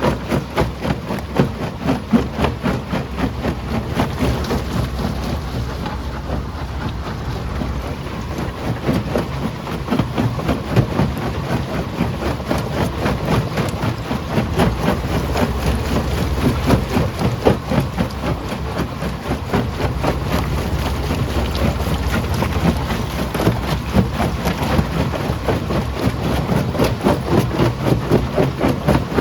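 Primary jaw crusher crushing rock: a dense, continuous clatter of stones knocking and breaking over a steady machine rumble.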